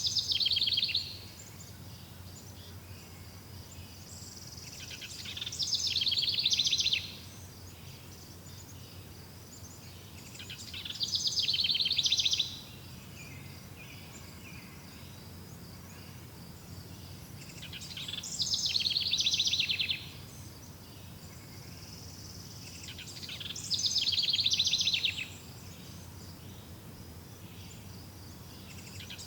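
A high trilling animal call of rapid pulses, repeated about every six seconds. Each phrase lasts about two seconds, swells in loudness and then stops abruptly. Behind it are a steady outdoor hiss and a faint continuous high whine.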